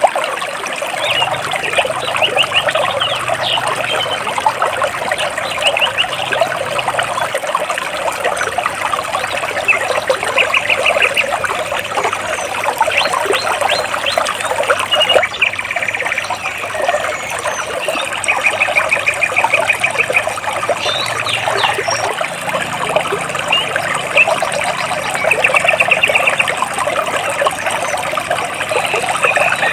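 Stream water flowing and splashing between large rocks, a steady dense babble, with small birds chirping over it in several quick trills of rapidly repeated high notes.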